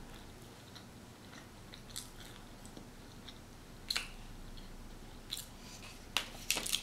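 Quiet mouth sounds of someone chewing a mouthful of burger: a few soft, separate wet clicks, coming closer together near the end.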